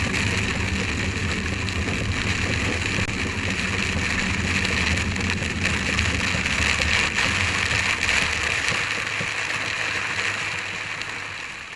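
Rain hitting a car windscreen, picked up by an in-car dash camera and played back at twice normal speed, as a steady static-like hiss over a low drone from the car. The drone thins out about nine seconds in and the whole sound fades out near the end.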